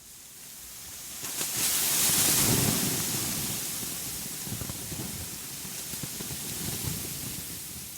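Steady rushing noise fades in from silence, swells to its loudest about two seconds in with a rumble beneath, then settles to an even hiss.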